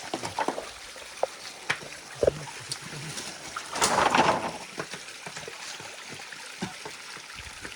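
Stream water running steadily, with scattered small splashes and knocks and a louder splash of water about four seconds in.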